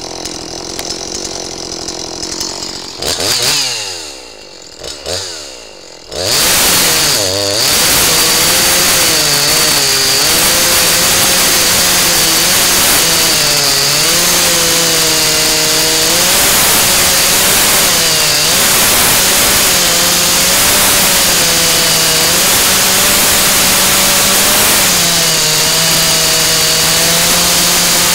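Husqvarna 345 45 cc two-stroke chainsaw idling, revved twice, then held at full throttle for over twenty seconds with its pitch dipping and recovering again and again, as the chain bogs and frees under load cutting black locust wood.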